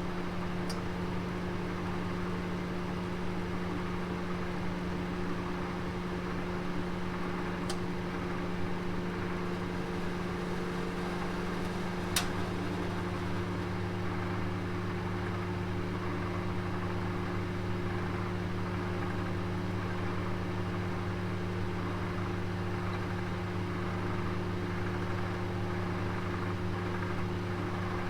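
Oven running with a roast inside: a steady, even hum with a few low steady tones, broken by three short, sharp ticks, the loudest about twelve seconds in.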